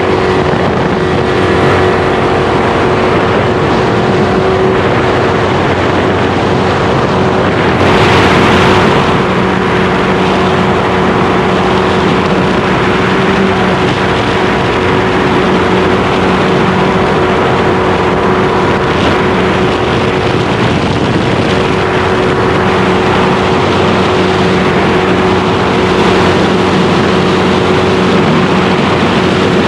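Racing jet boat's engine running hard at a steady pitch for the whole stretch, over a heavy rush of wind and water noise. The rush swells briefly about eight seconds in.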